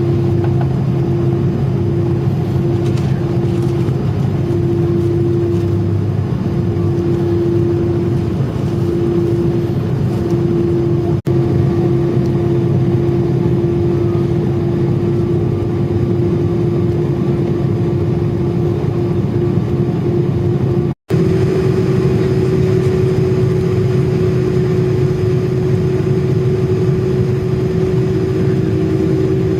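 Airliner cabin noise on the ground: a steady low hum with a whining tone that wavers at first, then holds steady and rises slightly after a brief dropout about two-thirds of the way through.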